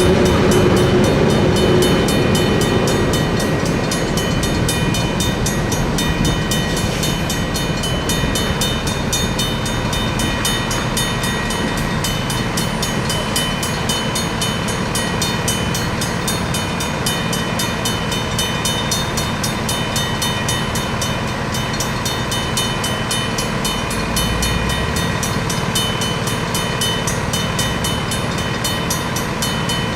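Freight train cars rolling through a grade crossing while the crossing's Safetran mechanical bells ring rapidly. A heavier rumble eases off over the first few seconds.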